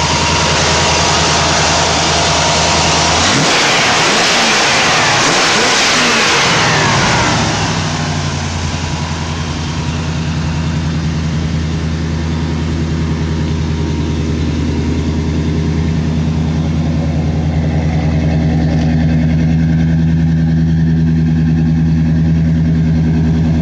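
Car engine idling steadily, revved once for about four seconds a few seconds in, then dropping back to a steady idle.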